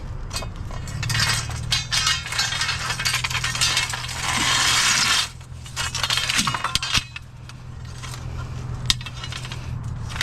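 Scrap metal pieces clinking and clattering as they are handled and set down, with a rattling stretch a little after four seconds in, over a steady low hum.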